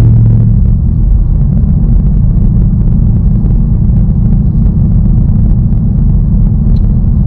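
2019 Ford Mustang Bullitt running with a steady, loud low rumble and no rise or fall in pitch. A low drone dies away in the first half-second.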